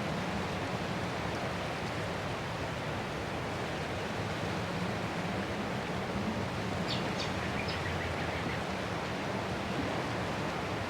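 Ocean surf washing ashore in a steady, even hiss without distinct separate crashes. A few brief, faint high chirps sound about seven seconds in.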